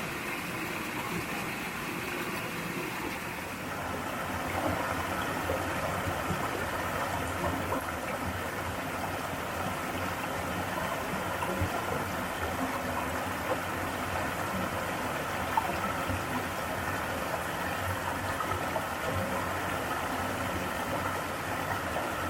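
Mountain valley stream running over rocks, a steady rush of water; about four seconds in it grows a little louder and fuller.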